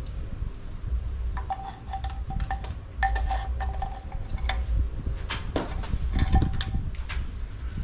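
Light metallic clinks, each ringing briefly at the same bell-like pitch, in two clusters of several strikes, over a steady low rumble of wind on the microphone.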